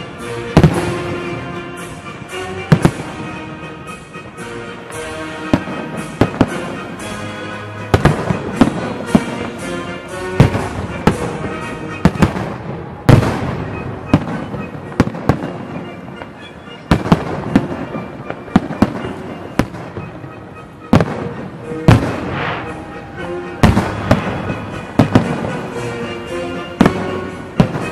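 Fireworks display: aerial shells bursting in sharp, irregular bangs, roughly one a second, with music playing under them.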